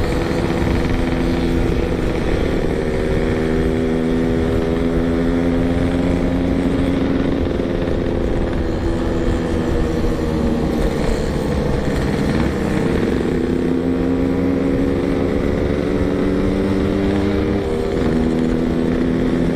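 Yamaha RX King's 135cc two-stroke single-cylinder engine running at light, steady throttle at low road speed, its pitch drifting gently up and down, with wind rumbling on the microphone.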